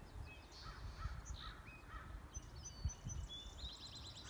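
Wild birds calling: short high chirps and whistles, then a quick trilling run of repeated high notes from about halfway through, over a faint low rumble.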